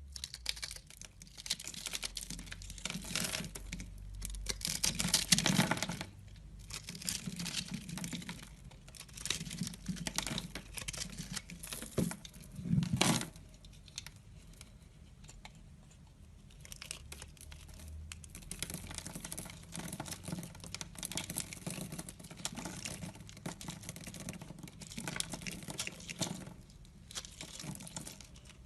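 A blade cutting and scraping into a bar of soap: dense crackling strokes in runs of a few seconds with short pauses, loudest at about five and thirteen seconds in.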